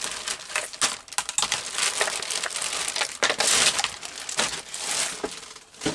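Paper rustling and crackling as sheets are handled, with scattered sharp clicks and knocks.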